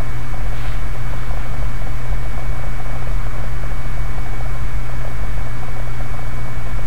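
Steady hum and hiss with a low drone and a thin, constant high whine, unchanging throughout.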